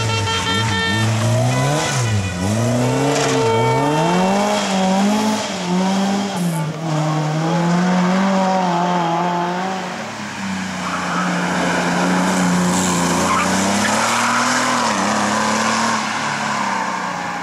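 Historic rally car engine revving hard, its pitch rising and falling repeatedly through gear changes and corners.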